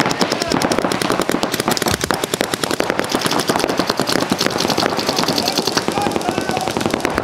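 Paintball markers firing rapid, continuous strings of shots that start abruptly, a dense rattle of pops.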